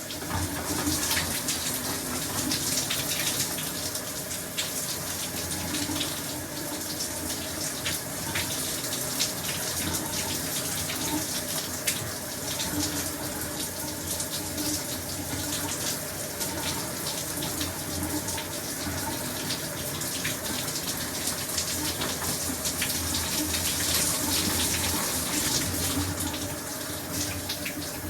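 Shower running: a steady hiss of falling water, a little louder from about a second in until near the end.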